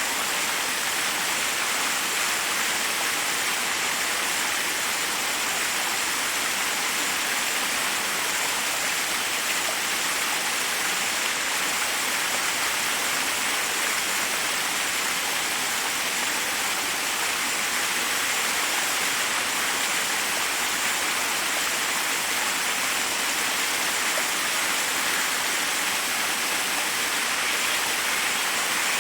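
Waterfall rushing steadily over rocks, a constant even hiss of falling water.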